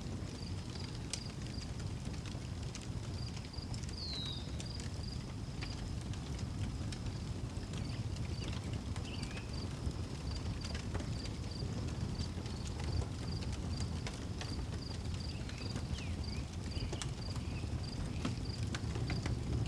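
Outdoor wood fire crackling with scattered sharp pops over a steady low rumble, while a cricket chirps steadily at about two or three chirps a second. A short falling bird chirp comes about four seconds in.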